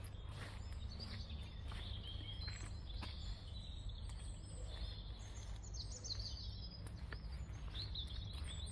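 Small birds chirping and calling in short, quick notes, heard over a steady low outdoor rumble.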